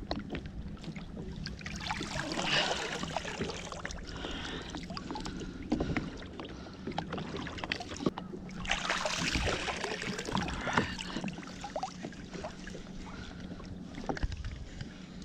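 Water sloshing and splashing as a person gets into the water beside a kayak and moves through it, with scattered knocks. A steady low hum runs underneath. The splashing is heaviest about two seconds in and again around nine seconds.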